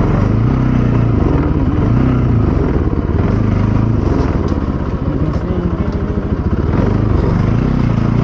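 Bajaj Pulsar 200 NS's single-cylinder engine running while the motorcycle is ridden, its revs rising and falling.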